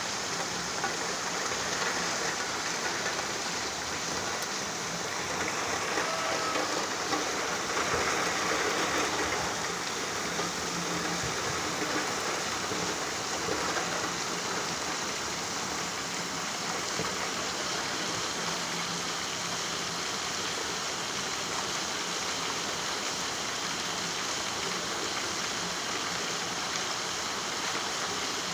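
Steady rain falling, a continuous even hiss that swells slightly a few seconds in.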